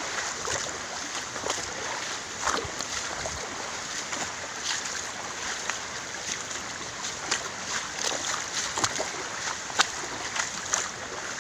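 Steady rush of river water, with scattered short splashes and knocks.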